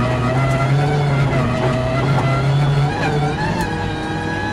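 Ford Focus RS WRC rally car's turbocharged four-cylinder engine, heard from inside the cabin, pulling steadily while the car is stuck in sixth gear, the only gear its gearbox will select. The engine note drops a little about three seconds in.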